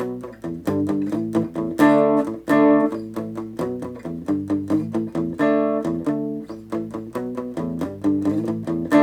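Electric guitar played through a Positive Grid Reactor 50 1x12 combo amp on an AI-generated tone with not as much drive, strumming chords in a steady rhythm.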